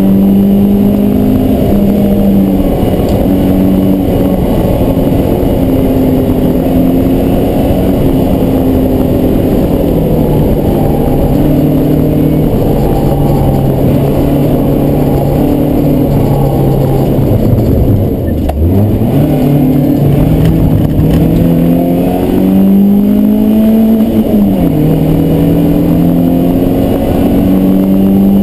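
BMW E36 318is four-cylinder engine, heard from inside the cabin, pulling hard around a race track, its pitch climbing and dropping in steps. About 18 seconds in the revs fall sharply and climb back; about 24 seconds in they rise and then drop suddenly.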